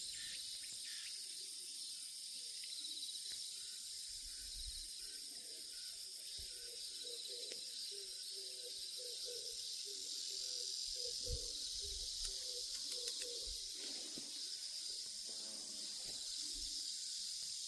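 Insects trilling steadily in a dense high-pitched chorus, with a few faint lower calls in the middle.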